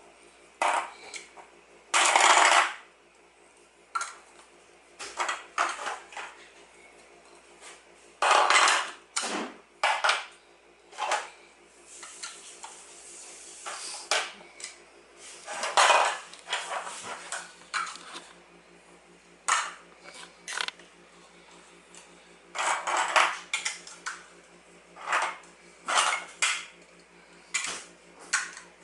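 Hard toy pieces clattering and knocking together in irregular bursts as a toy airplane is put together by hand.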